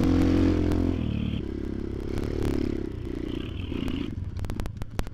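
Motoland XR250's single-cylinder engine running under throttle, then eased off about a second in to a lower, rougher note as the bike rolls on, with clattering and knocks from the bike going over rough ground near the end.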